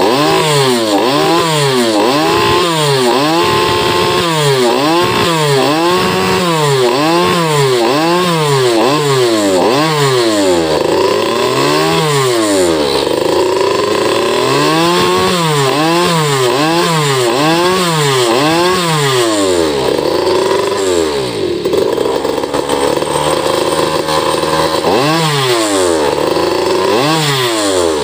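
Small two-stroke Goped scooter engine, a 49cc earth-auger engine bored out to 63cc, running through a racing exhaust and revved up and down in quick throttle blips, about two a second. It holds high revs briefly now and then and settles lower for a few seconds about three-quarters of the way through, then goes back to rapid blipping.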